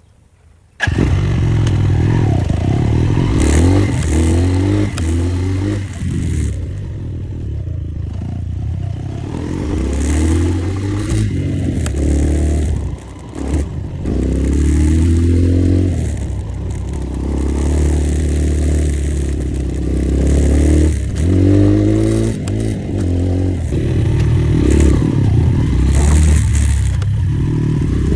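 Enduro motorcycle engine running hard, its pitch rising and falling over and over as it revs up and eases off. It cuts in suddenly about a second in and drops briefly about halfway through.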